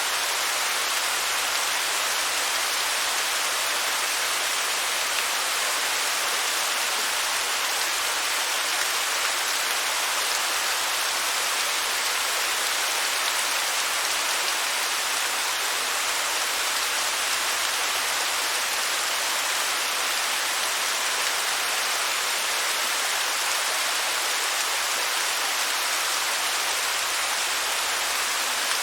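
Waterfall: a steady, unbroken rush of falling water, mostly a bright hiss with little low rumble.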